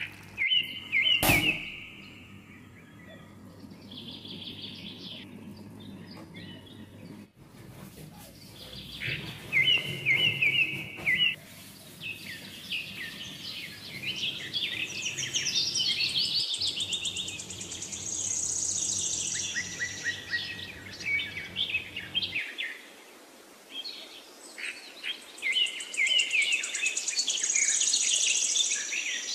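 Birds chirping and singing in short bursts of quick high calls and trills, recurring throughout.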